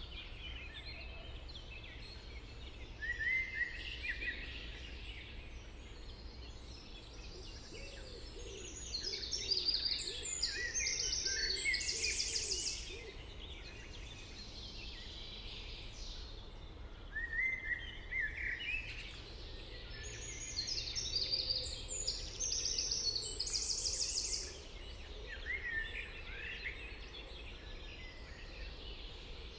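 Songbirds singing near a small lake in bouts of quick, repeated high phrases, over a steady low background rumble.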